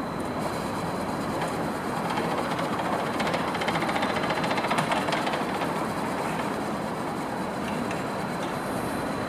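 A train running past at close range, its wheels clicking over the rail joints, loudest around three to five seconds in.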